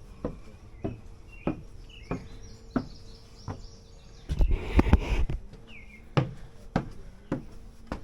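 A hiker's footsteps at a steady walking pace, about one step every 0.6 seconds, with a few short bird chirps. A louder rustling noise lasting about a second comes midway.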